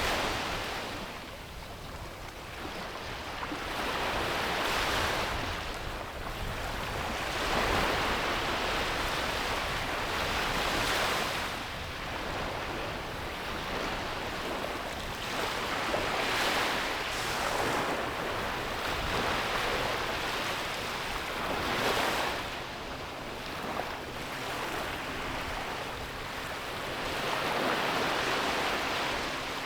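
Sea waves breaking and washing onto a beach, a continuous rush that swells and ebbs every few seconds.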